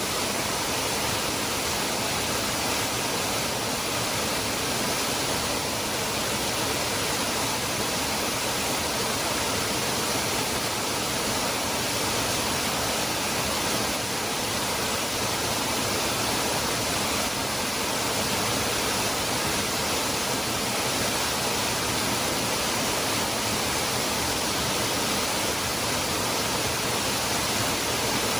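Waterfall pouring, a constant, even rush of falling water with no breaks or changes.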